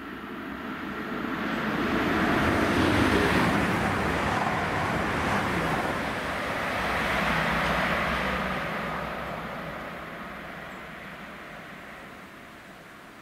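Class 222 Meridian diesel multiple unit passing, a rumbling wash of engine and wheel noise. It swells over the first couple of seconds, stays loud through the middle, then fades as the train draws away.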